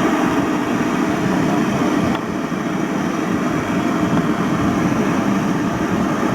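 Generator engine running steadily after starting, a loud even mechanical sound.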